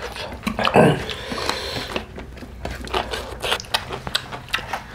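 Eating sounds: people chewing and smacking on mouthfuls of curry, rice and raw beetroot salad, a quick run of short wet clicks and crunches, with a brief hum about a second in.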